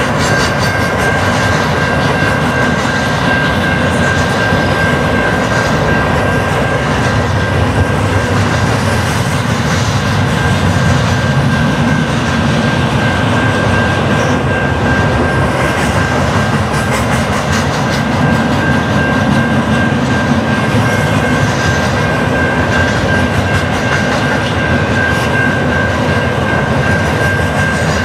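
Double-stack intermodal freight train cars rolling steadily past on the rails, with a steady high-pitched tone running through the noise.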